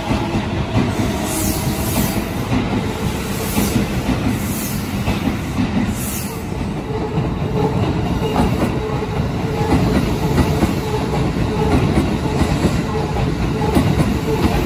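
Shin-Keisei Line electric commuter trains running through the station: a steady rumble of wheels on rail, with clicking over the rail joints and some wheel squeal. There are a few brief high squeals in the first half, as one train pulls out and another runs in on the adjacent track.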